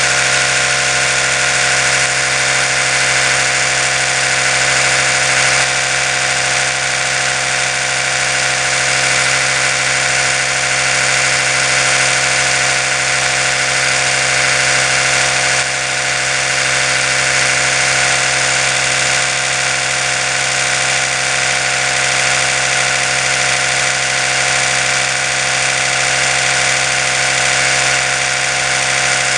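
Oral-B electric toothbrush motor running steadily: an even, unbroken buzzing hum with a hiss above it.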